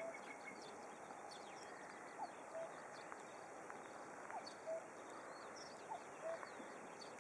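Birds calling outdoors. One bird repeats a low two-note call about every two seconds, the second note lower than the first, over scattered higher chirps from other birds and a faint steady background hiss.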